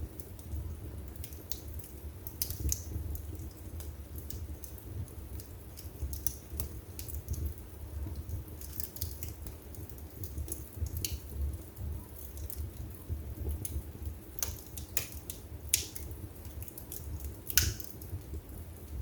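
Wood fire burning in a fireplace, crackling with scattered sharp pops over a low steady rumble; the loudest pop comes near the end.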